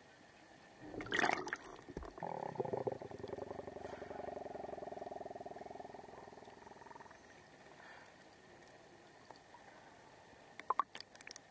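Scuba diver breathing through a regulator underwater: a short hiss of inhalation about a second in, then a long exhalation of bubbles, fast and bubbling, lasting about five seconds before fading. A few sharp clicks come near the end.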